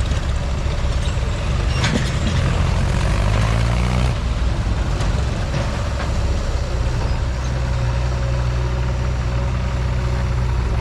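Tractor diesel engine running hard, rising in pitch a few seconds in, then holding a steady low drone.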